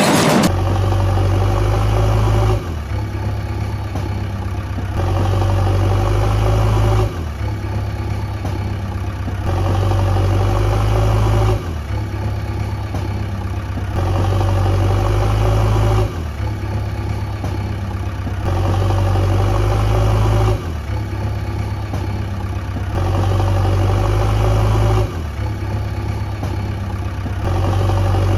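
Looped cartoon engine sound effect for a toy truck or digger: a steady engine drone that switches back and forth between two slightly different segments about every two and a half seconds.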